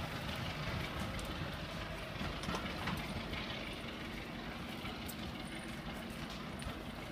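Steady low rumble of a train moving slowly along the line, with a few faint clicks.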